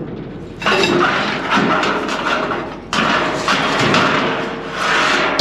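Scrap metal being handled, a dense clatter of knocks and bangs in two stretches with a brief lull between them.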